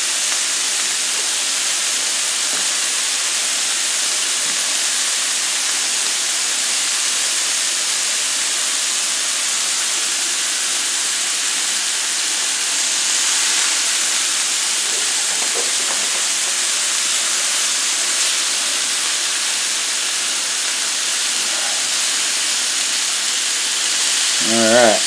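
Strips of beef steak and onion rings sizzling in butter on a hot griddle: a steady, even hiss with no letup.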